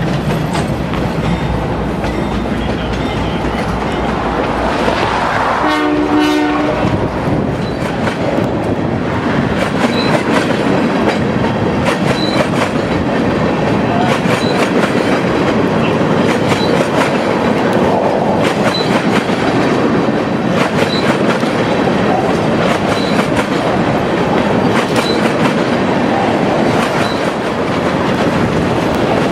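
Canadian Pacific freight train rolling past, with a steady rumble and the wheels clicking over rail joints. A short horn note sounds about six seconds in, and a faint high tick repeats about every two seconds.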